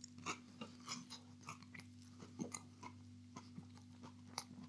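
A person chewing a mouthful of breaded cod fillet, faint and irregular, with small crunchy clicks from the crisp breaded coating.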